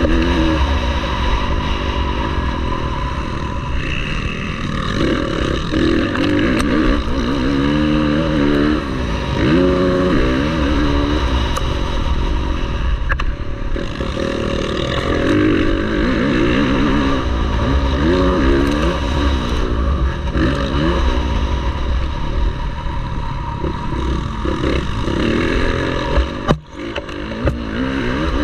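MX1 motocross bike engines revving hard, the pitch climbing and dropping again and again as riders open and close the throttle and shift gears, over a constant low rumble. Near the end the sound drops out briefly around a sharp knock.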